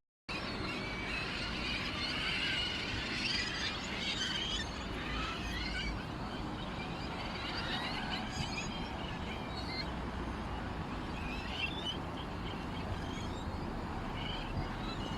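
Many small songbirds chirping and twittering together in a dense chorus, over a steady background hiss.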